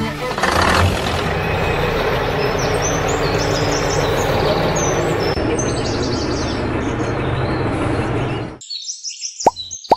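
Birds chirping over a loud, steady noise that cuts off abruptly about eight and a half seconds in. The birds carry on alone after the cut, and a single plop sound effect comes near the end.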